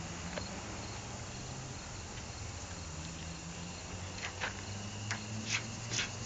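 Crickets chirping steadily in the night background, with a low hum under it and a few faint clicks in the second half.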